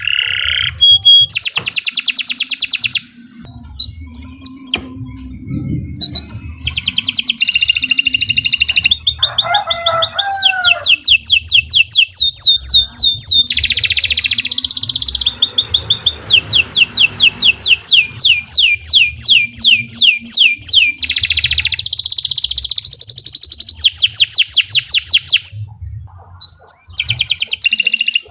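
Domestic canary singing long, rapid trilled phrases of high, evenly repeated notes. The song pauses about three seconds in and again shortly before the end.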